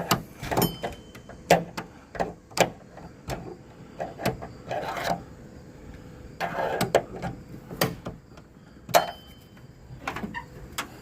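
Irregular sharp knocks, clicks and clunks, with a few brief stretches of scraping and rustling, as things are moved and handled around an old car.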